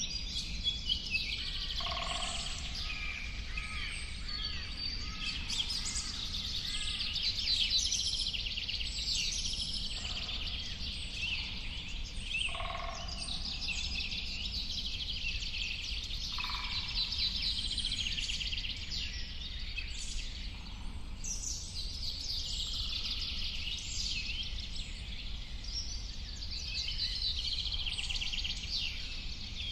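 Many birds singing at once in a dense chorus of overlapping chirps, trills and warbles, with a few lower whistled calls now and then, over a steady low rumble.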